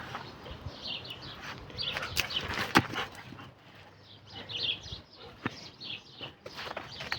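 Birds chirping in a string of short, high calls, with a few sharp knocks among them.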